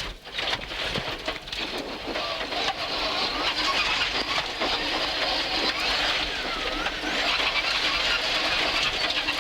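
Rally car driven at speed on a stage: the engine runs under a steady rush of road and tyre noise, its pitch rising and falling a little as the revs change.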